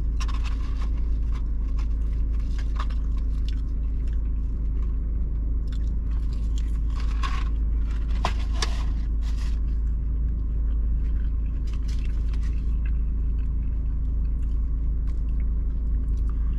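Close-up chewing and biting on fries and a chicken sandwich, with paper rustling about seven to nine seconds in as a hand goes into the fast-food bag. Underneath is the steady low hum of the idling car.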